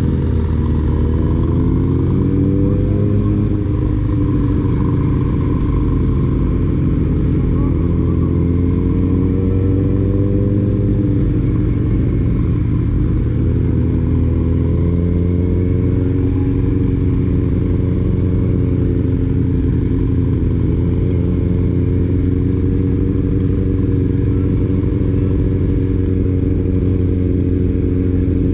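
Motorcycle engines running at low road speed. The engine note rises and falls with the throttle twice in the first ten seconds or so, then holds a steady cruise, over a constant rush of wind and road noise.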